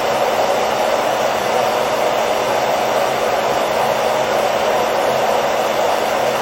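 Hair dryer running continuously: a steady, unchanging rush of air noise with a faint low hum underneath, used as a sleep sound for a baby.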